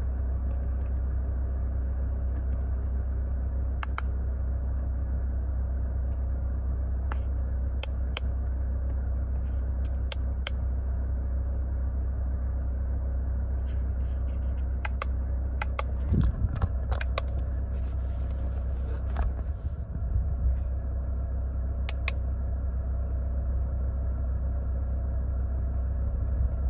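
A 2003 Mercedes-Benz W211's engine idling steadily, with scattered light clicks and a few louder knocks and rustles about two-thirds of the way in.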